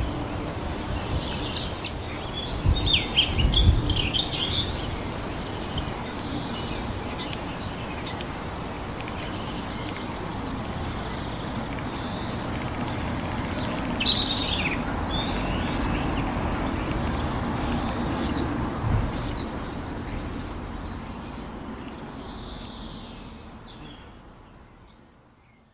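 Garden birds calling and chirping over a steady low background noise. A run of short, high chirps repeats about twice a second near the end. Everything fades out over the last few seconds.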